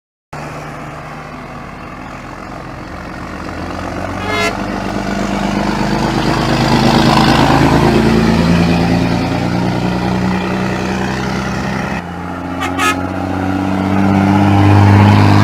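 Scania truck diesel engines running, the engine note rising as one truck accelerates. The sound changes abruptly to another truck about twelve seconds in. Brief sharp sounds come at about four seconds and just after the change.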